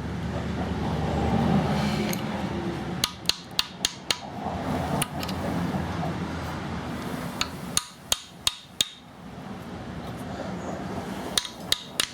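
Sharp metal-on-metal taps in quick clusters of four or five, from the new clutch sleeve being worked onto a 125cc pit bike's crankshaft. The fit is tight at first, over a lip. The taps come after a few seconds of scraping and handling noise.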